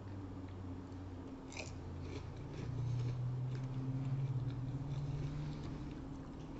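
Close-miked chewing and biting of pizza, with small wet mouth clicks, over a low steady hum whose pitch steps up slightly about two and a half seconds in.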